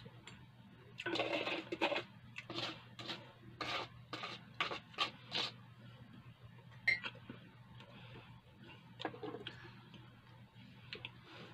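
Close-up chewing and mouth sounds of a man eating bread: a quick series of short wet smacks and crunches, busiest in the first half, then a few scattered ones.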